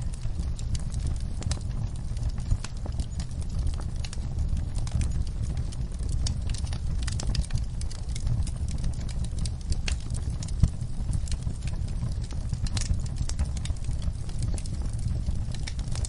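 Wood fire crackling in a fireplace: irregular sharp pops and snaps over a steady low rumble of the flames, with one louder pop about ten and a half seconds in.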